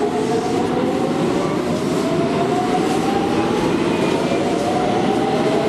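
Subway train running, with a dense rumble and a motor whine that rises steadily in pitch as the train gathers speed.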